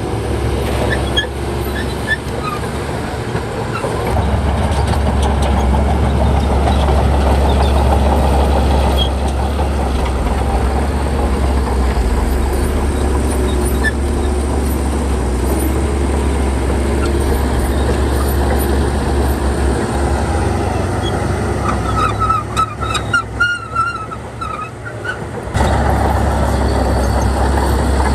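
Heavy diesel earthmoving machinery running steadily with a deep engine drone. Near the end the drone briefly falls away and a few high squeaks are heard before it comes back.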